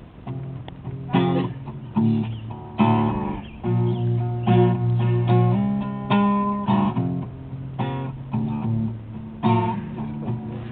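Guitar being strummed, a run of chords with no singing.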